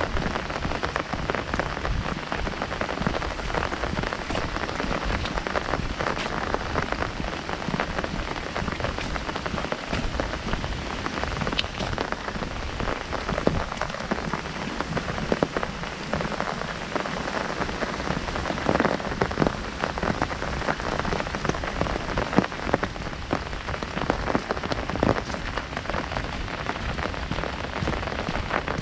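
Heavy rain drumming on an umbrella overhead: a dense, steady patter of drops with now and then a louder, heavier drip.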